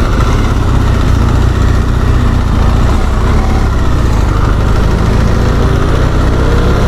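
Motorcycle engine running steadily while riding, with a strong low rumble; its pitch rises in the last couple of seconds as the bike speeds up.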